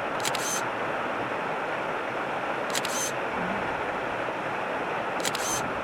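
Steady rush of a nearby waterfall, with three short camera shutter clicks about two and a half seconds apart.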